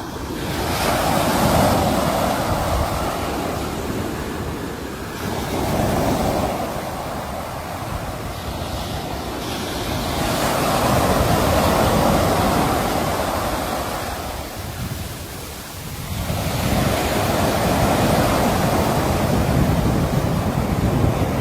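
Sea waves washing in and out on the shore, the surf noise swelling and ebbing in four slow surges, each a few seconds long.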